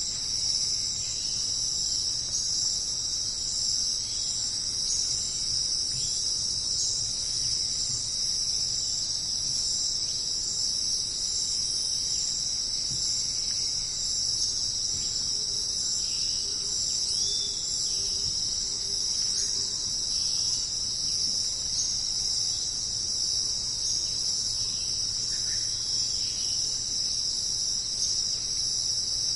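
Steady chorus of rainforest insects, a dense high continuous trilling, with faint short bird calls now and then beneath it.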